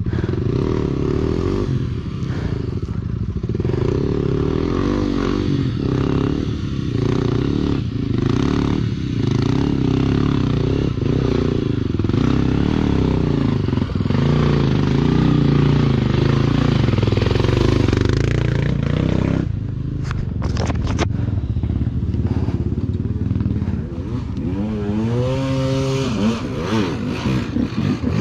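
Enduro motorcycle engine labouring under load at fairly steady revs on a trail climb, with a brief clatter of knocks a little past two-thirds in, then revving up and down repeatedly near the end.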